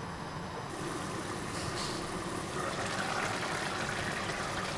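Butter chicken gravy simmering in a pan on the stove, a steady bubbling hiss.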